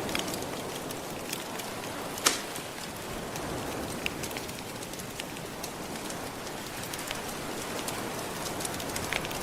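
Steady wash of gentle ocean waves mixed with a crackling wood fire: scattered sharp pops and snaps, the loudest about two seconds in.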